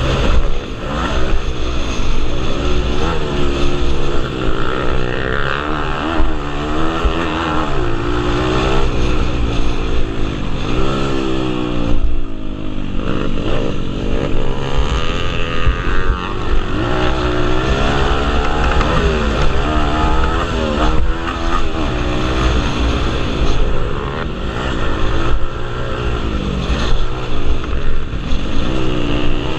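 Several pit bike engines racing, revving up and down, their rising and falling pitches overlapping the whole time.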